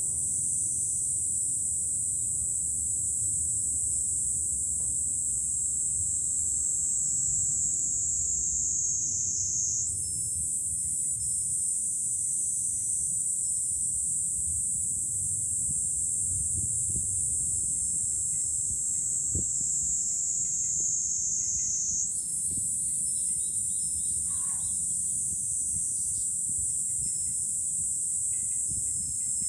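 Summer cicadas singing in a loud, steady high-pitched drone whose pitch sinks slowly, then jumps back up about ten seconds in and again about twenty-two seconds in. Under it runs a low rumble of wind.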